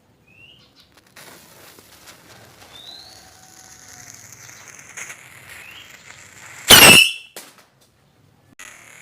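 A firecracker goes off with one loud, sharp bang about seven seconds in, lasting under half a second, after several seconds of a faint steady hiss.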